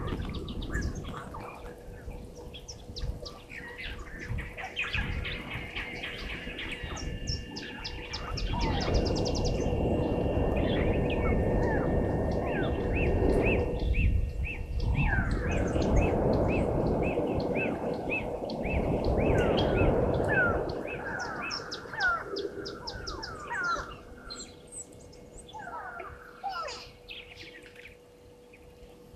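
Several wild birds calling at once: repeated chirps and short whistles, with a quick rising run of notes about eight seconds in. Under them, a low rushing noise swells through the middle and then fades, and a faint steady electrical hum runs beneath it all.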